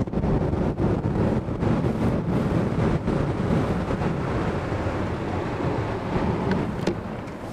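Wind buffeting the microphone on a moving motorboat, over the rumble of the boat running on the water. The noise eases slightly near the end.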